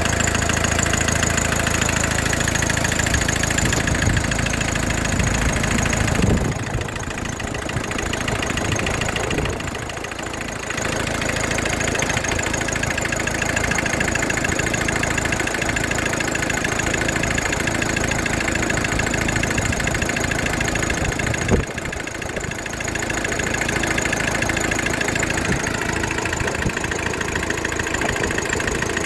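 Renault 1.9 engine idling steadily. The sound dips twice, a few seconds each time, with a sharp click at the start of the second dip.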